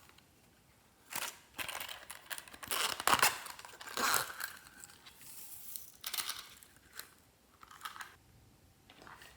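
Glossy slime and mix-in items being handled by hand, making irregular bursts of crinkling and crackling. The bursts are loudest in the first half and become smaller and more scattered toward the end.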